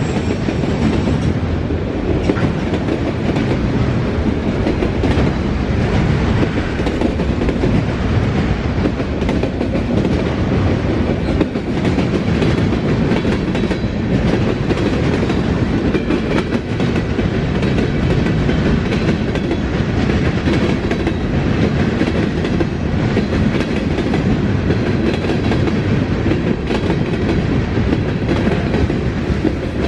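A long freight train's cars rolling past at track speed: a steady rumble with the clickety-clack of steel wheels over the rail joints.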